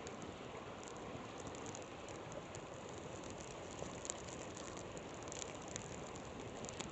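Campfire crackling, with scattered sharp pops, over the steady rush of a flowing river.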